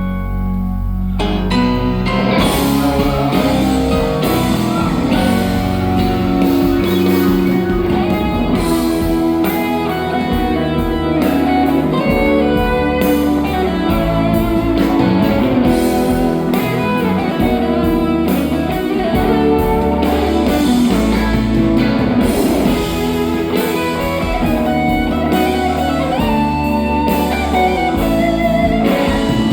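Live rock band playing an instrumental passage, guitar lines over bass and drums. A held chord at the start gives way about a second in to a busy, fast-moving guitar part.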